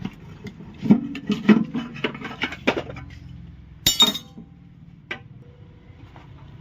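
Metal hand tools and engine parts clinking and knocking together during engine disassembly. A flurry of clinks comes in the first few seconds, then one sharp, ringing clink near the middle and a lighter tap a second later.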